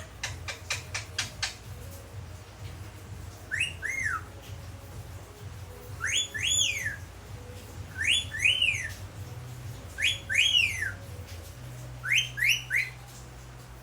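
Rose-ringed (Kramer) parakeet whistling a repeated phrase: five times, each a quick pair of rising-then-falling whistled notes, with a short run of sharp clicks in the first second or so.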